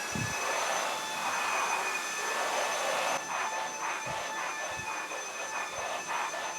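Proscenic WashVac F20 cordless wet-dry floor cleaner switched to max mode: its suction motor whines up to speed at the start, then runs steadily with a high whine over rushing air.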